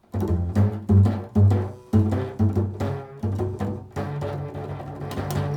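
Improvised instrumental music: a plucked string instrument sounding a run of low, ringing notes, one after another about every half second.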